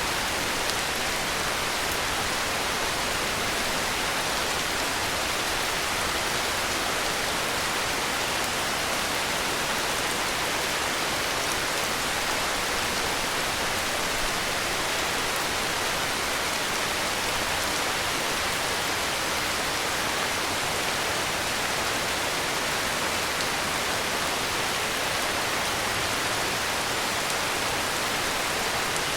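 Heavy rain falling steadily: an even, unbroken hiss with no thunder or single drops standing out.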